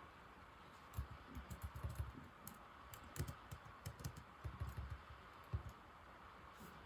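Typing on an old laptop keyboard: a quick, irregular run of key clicks starting about a second in and stopping near the end.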